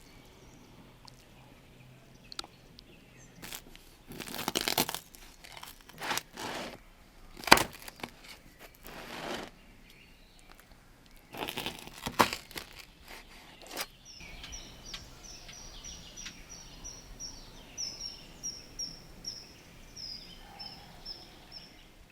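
Several crunching, crackling sounds, with one sharp crack about seven and a half seconds in. From about halfway through, a bird repeats short high chirps in a quick even run.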